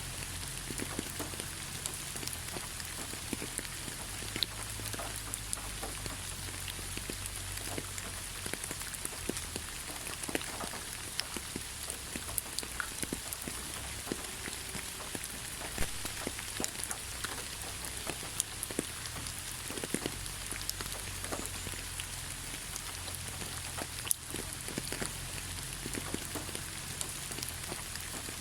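Steady rain falling in a pine forest: an even hiss with many separate drops landing sharply and irregularly close by.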